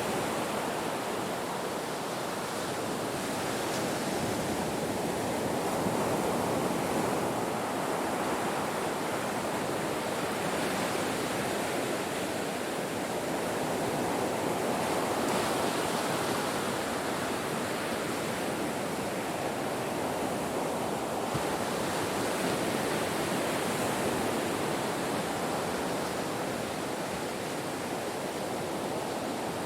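Ocean surf breaking on a shore: a steady wash of water noise that swells and eases every several seconds as waves come in.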